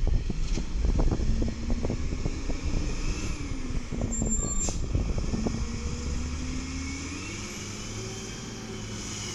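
Diesel WhiteGMC refuse truck engine pulling away, its pitch dipping and rising as it changes gear, with a few knocks in the first second or so. It grows fainter toward the end.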